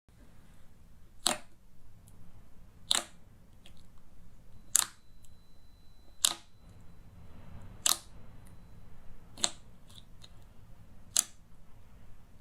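Slime being worked by hand, giving seven sharp clicks at an even pace, about one every second and a half, over soft handling noise.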